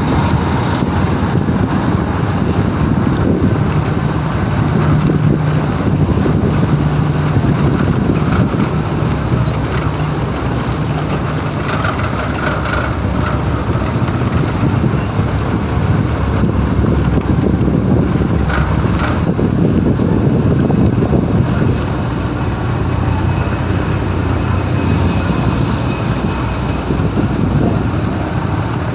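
Heavy truck engines running in road traffic, a steady low engine hum under road noise, with a couple of brief sharper noises about twelve and nineteen seconds in.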